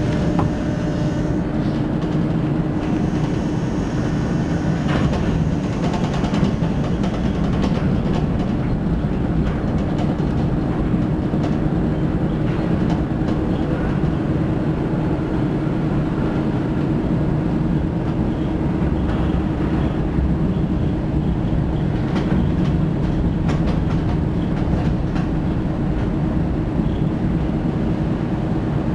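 Interior of a Düsseldorf SkyTrain suspended monorail car in motion between stations: a steady rumble with a constant drive hum and a few faint clicks.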